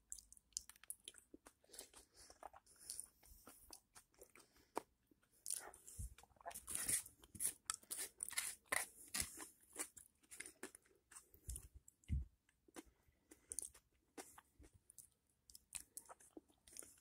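A person chewing and biting crunchy food, with many short, irregular crunches and wet mouth clicks that come thickest in the middle.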